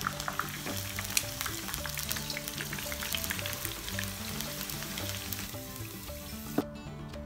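Battered prawns sizzling and crackling in deep-frying oil in a wok, then tipped with the oil into a wire mesh strainer. The sizzle stops about six seconds in, and a single sharp tap comes near the end.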